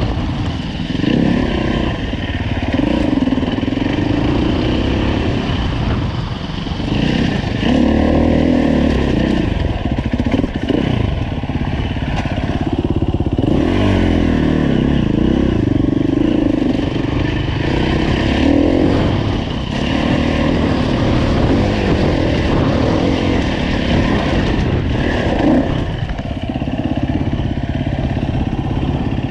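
2015 Husqvarna FE 350's single-cylinder four-stroke engine running continuously, revving up and down over and over as the dirt bike is ridden with changing throttle.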